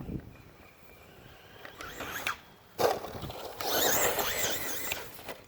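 Traxxas Rustler VXL RC truck driving. Its brushless motor whines and its tyres scrabble from about two seconds in, with a sudden hit near three seconds and the loudest high whine just after.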